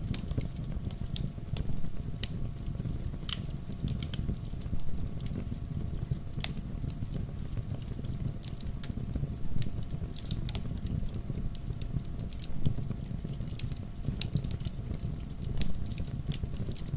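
Fireplace fire crackling, with scattered sharp pops over a steady low rumble.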